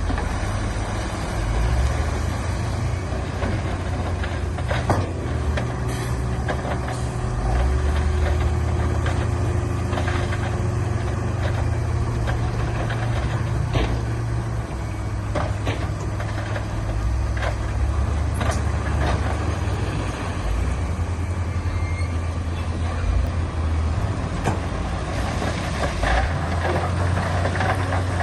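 Diesel engines of heavy earthmoving machinery running steadily under load, with scattered sharp knocks.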